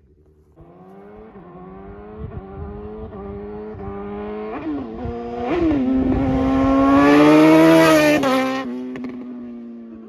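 2020 Suzuki GSX-R750 inline-four with a Moore Mafia ECU flash and slip-on exhaust, accelerating and shifting up through several gears as it approaches. It is loudest as it passes, near the eight-second mark, then drops in pitch and fades as it rides away.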